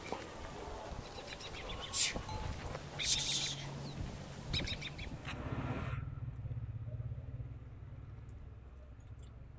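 Outdoor ambience: a few short bird chirps about two, three and four and a half seconds in, over a steady low hum that is left on its own for the last few seconds.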